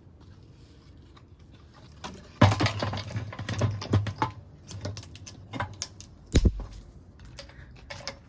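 Objects being handled: a quick, uneven run of light knocks, clicks and rustling starts after about two seconds of quiet, with one heavier thump about six seconds in.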